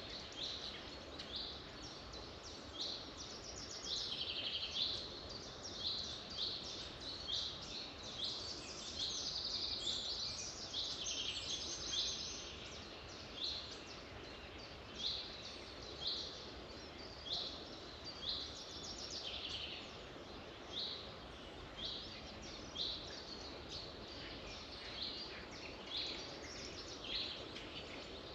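Wild birds singing: short high chirping phrases repeat about once a second, several voices overlapping for a few seconds around the middle, over a steady background hiss.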